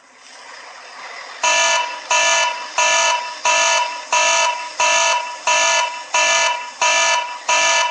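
An electronic alarm beeping in a fast, even pulse, about three beeps every two seconds, starting about a second and a half in.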